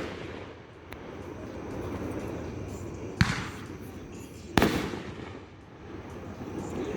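Fireworks going off: two sharp bangs, about three seconds and four and a half seconds in, over a continuous low rumble.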